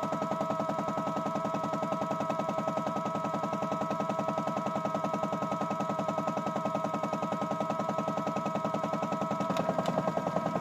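Miele W1 toy washing machine running its wash cycle: a steady motor whine with a fast, even pulsing, and a couple of clicks near the end.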